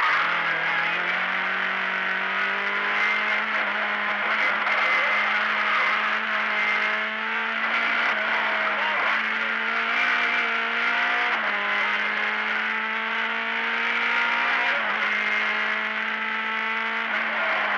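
Lada race car's four-cylinder engine running hard at high revs, heard from inside the cabin, its pitch holding high and steady with a few brief dips as the driver lifts or shifts.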